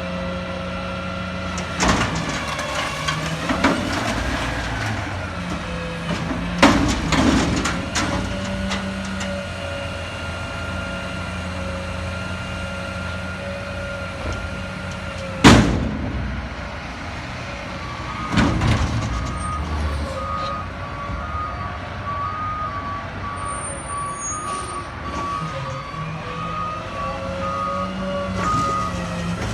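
Autocar ACX front-loader garbage truck at work: its engine revs up and down to power the hydraulic lift arms, with loud bangs as a dumpster is lifted and emptied, the loudest about halfway through. In the last third a reverse beeper sounds in short repeated beeps.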